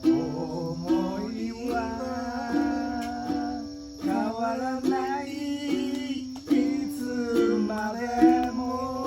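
Ukulele being played: plucked notes and chords in a steady rhythm, each ringing briefly and fading.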